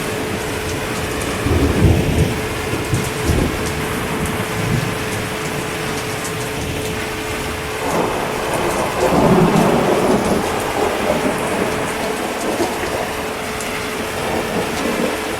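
Steady heavy rain with rolling thunder: one rumble about two seconds in and a longer roll starting around eight seconds in.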